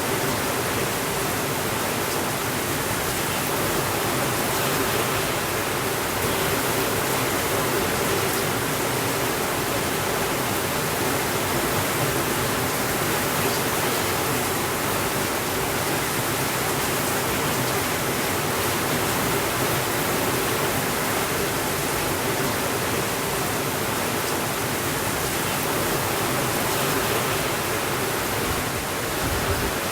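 Steady, even rainfall, a constant hiss of rain without thunder.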